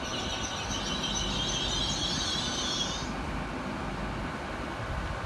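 GWR Class 800 train squealing high-pitched as it slows to a stop, over a steady low rumble from the train. The squeal cuts off about three seconds in.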